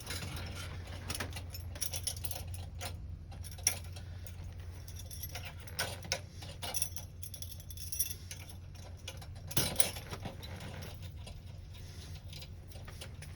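Metal wrenches clicking and clinking against a fitting in irregular, scattered taps while the cap of an oxygen filler port is worked loose, over a steady low hum.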